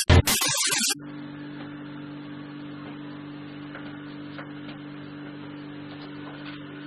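A loud, noisy sound cuts off about a second in, leaving a steady low electrical hum.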